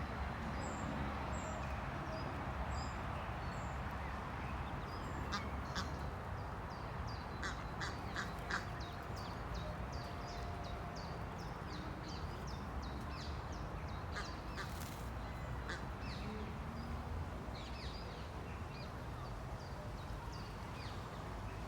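Ducklings peeping: many short, high calls in quick series over a steady low background noise.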